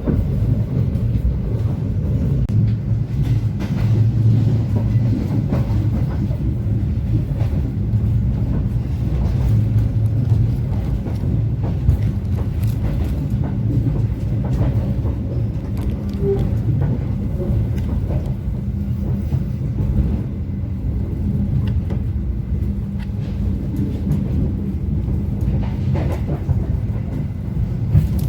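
Passenger train running at speed: a steady low rumble of the moving coach with scattered short clicks and knocks from the wheels on the track.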